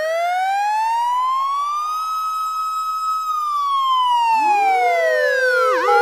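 An emergency-vehicle siren wails through one slow cycle. Its pitch rises for about two seconds, holds high, then falls. A second, lower siren tone comes in near the end, with a quick dip and rise just before the end.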